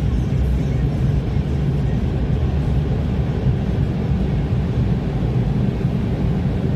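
Steady low rumbling noise heard from inside a car, with no breaks or changes.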